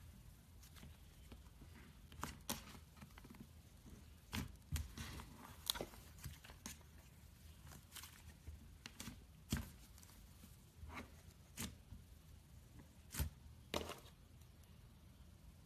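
Butter slime being pressed and pulled by hand, giving a dozen or so irregular sharp clicks and pops.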